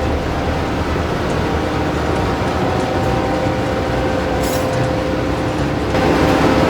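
Steady drone of a ship's engine-room machinery with a constant hum, a brief high hiss about four and a half seconds in, and growing louder about six seconds in.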